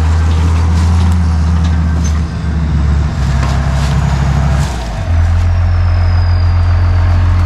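Diesel engine of a Case 850K crawler bulldozer running close by, its note changing and settling at a new steady pitch about five seconds in.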